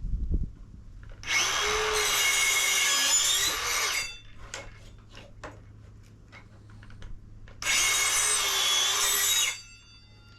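Electric drill running in two bursts of about two to three seconds each, its pitch dipping and wavering under load as it works into wood. Scattered clicks and knocks come between the bursts.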